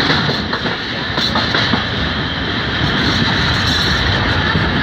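Passenger coaches of the Khyber Mail running along the track, heard from an open doorway: a steady rumble and rattle of wheels on rails, with a few sharp clicks in the first two seconds.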